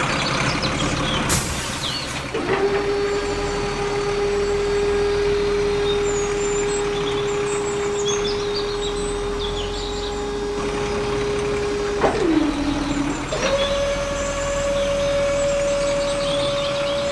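Small electric motor of a DIY model construction machine running with a steady whine. About twelve seconds in the pitch sags lower, then a second later it rises to a higher steady whine. Birds chirp in the background.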